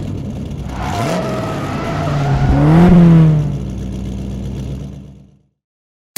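Car engine revving: the pitch climbs to a loud peak about three seconds in, drops back, then fades out about five seconds in.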